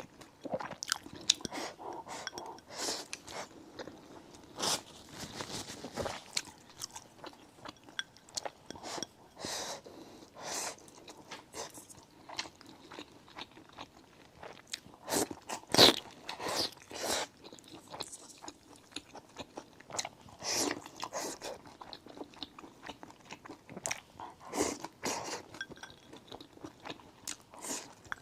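Close-up eating sounds: a person biting into and chewing a sweet-and-sour fried egg with a runny yolk, in irregular bites and chews with one louder bite about sixteen seconds in.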